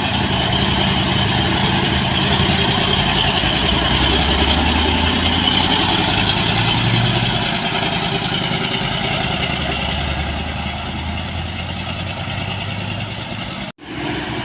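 Heavy truck's diesel engine running with a steady low drone, cut off abruptly for an instant near the end.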